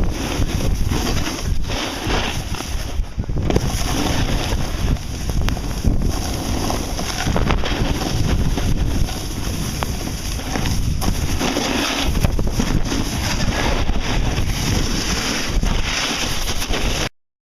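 Wind buffeting the microphone of a camera moving fast down a snowboard slope, a loud rushing noise that comes in uneven gusts and cuts off suddenly near the end.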